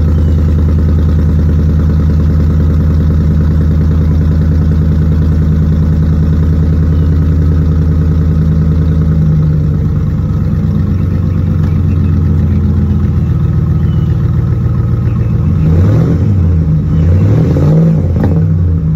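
Ford pickup truck's engine running through a really loud dual exhaust, idling steadily, then revved up and down a few times near the end.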